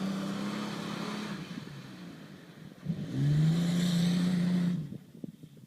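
4x4's engine revving hard, the pitch climbing and holding, easing off, then revving up again about three seconds in. Near the end the engine drops away and a few knocks and rattles follow.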